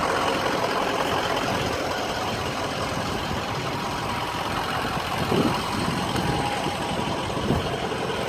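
Ford 6.0-liter Power Stroke V8 turbo-diesel running at a steady idle.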